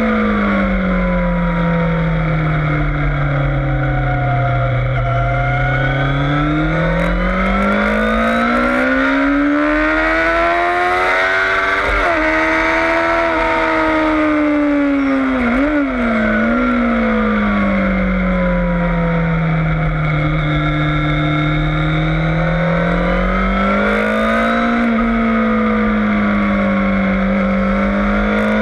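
Yamaha FZS600 Fazer's inline-four engine at full track pace, its pitch sinking and climbing in long sweeps with two quick gear-change breaks near the middle, over a steady wind rumble on the microphone.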